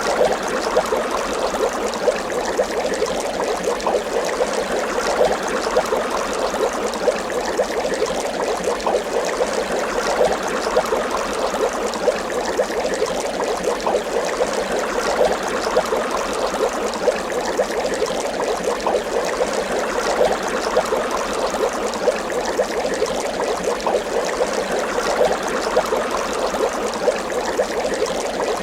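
Water bubbling continuously, with a dense patter of small bubble pops.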